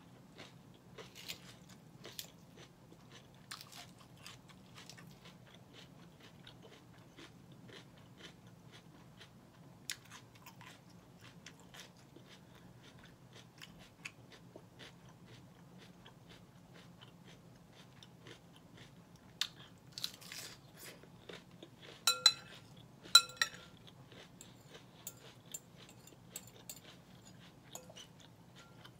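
Crunching and chewing of mouthfuls of Caesar salad lettuce, many short crisp crunches throughout. A metal fork clinks against the glass bowl with a brief ring a few times, the loudest sounds, about two-thirds of the way through.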